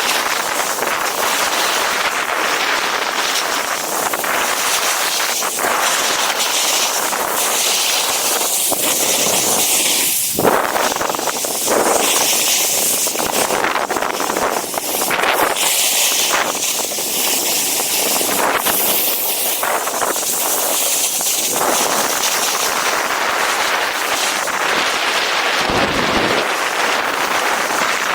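Snowboard sliding over snow, a continuous loud scraping hiss that swells and eases with each turn, mixed with strong wind hitting the microphone. A heavier wind gust rumbles briefly near the end.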